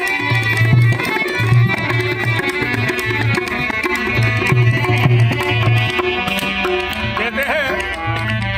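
Live Indian folk music played without singing: tabla drumming under sustained melodic tones, with a brief wavering pitched line near the end.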